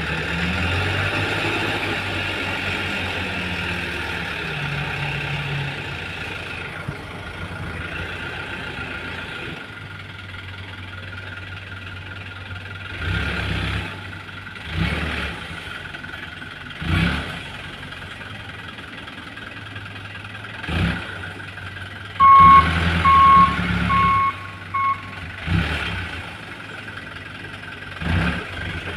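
Toyota Dyna dump truck engine running, louder for the first several seconds and then settling to a lower steady idle, with several short loud surges. About two-thirds of the way in, a reversing beeper sounds four times.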